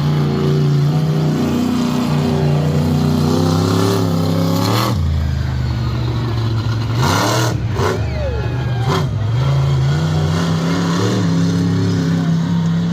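Large truck engine running loud and revving, climbing in pitch about four seconds in and dropping off sharply near five seconds. Several sharp cracks follow between about five and nine seconds.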